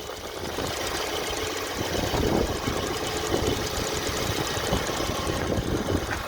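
BMW E90 318i's N43 four-cylinder petrol engine running, with a steady, fast, even knocking in its sound. This is the intermittent engine knock the car is being recorded for.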